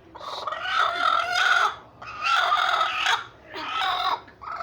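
Chickens calling: three long, drawn-out calls one after another, the first lasting nearly two seconds and the last the shortest.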